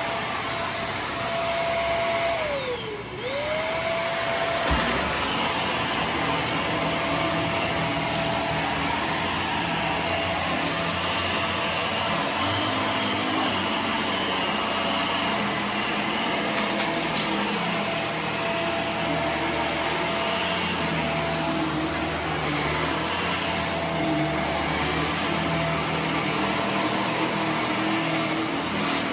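Vacuum cleaner running steadily. About three seconds in its motor pitch dips briefly and spins back up.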